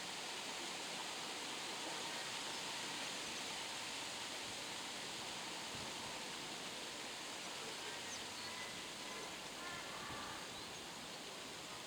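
Steady, even outdoor background hiss with no clear single event, and a few faint brief tones about eight to eleven seconds in.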